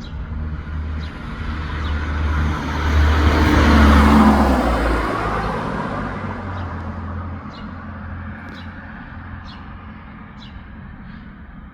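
A motor vehicle passes by: engine hum and road noise swell to a peak about four seconds in, then fade away. Through it, a small bird gives a short high chirp about once a second.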